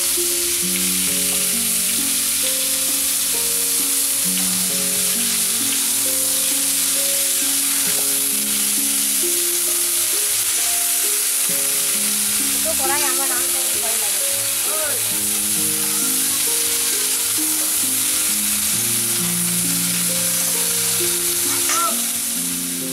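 Vegetable wedges sizzling in hot oil in an aluminium kadai, stirred now and then with a metal spatula. The sizzle is a steady hiss, over soft background music.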